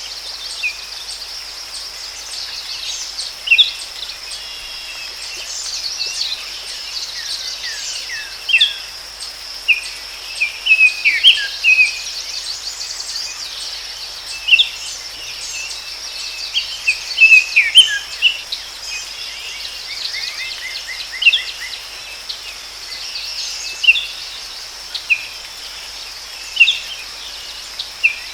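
Forest ambience: several birds giving short chirps and calls, one a quick trill about three-quarters of the way through, over a steady high-pitched insect drone.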